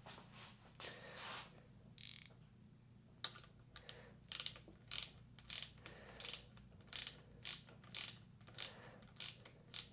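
Hand ratchet clicking in a steady run of strokes, about two clicks a second, starting about three seconds in after a few scattered clicks.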